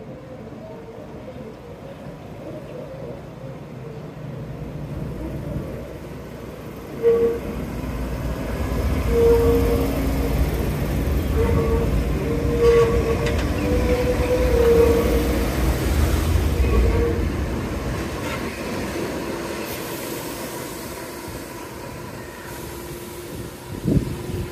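Enoshima Electric Railway (Enoden) train approaching and passing close by: a low rumble of wheels on the rails that builds, is loudest from about nine to seventeen seconds in, then fades. While it passes there are intermittent whining tones from the running gear, and one sharp sound about seven seconds in.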